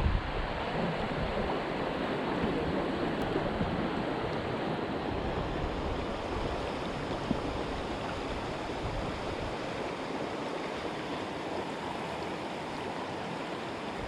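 Fast-flowing creek rapids rushing steadily, with a low rumble of wind on the microphone in the first second or two.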